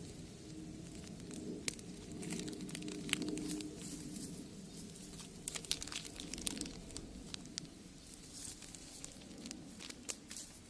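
Wood fire crackling in a brick rocket stove: irregular sharp pops and clicks over a low steady rumble of the burning fire.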